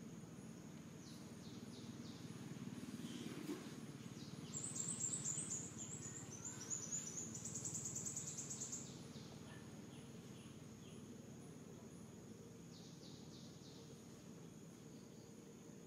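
Faint outdoor ambience: a steady high insect buzz, with a bird giving a rapid run of high chirps ending in a trill about halfway through.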